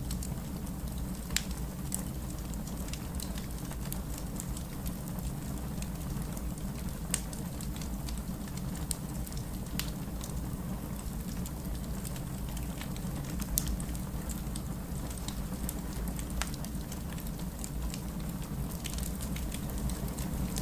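Wood fire burning in a fireplace: a steady low rumble with irregular sharp crackles and pops scattered throughout, a few louder snaps among them.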